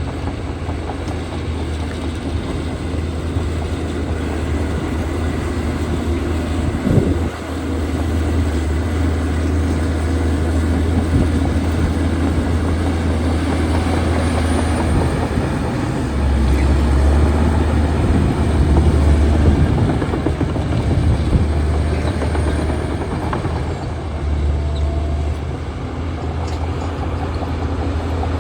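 Bulldozer's diesel engine running under load while pushing soil, a steady low rumble that swells louder a couple of times in the second half. There is a single knock about seven seconds in.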